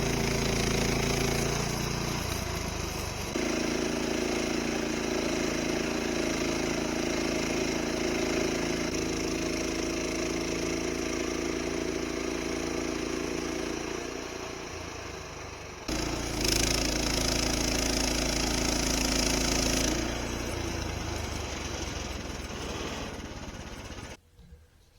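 Portable band sawmill running: its gasoline engine drives the blade through a maple log, the pitch and load shifting as it cuts, with a harsher, louder stretch of cutting in the second half. The sound cuts off abruptly near the end.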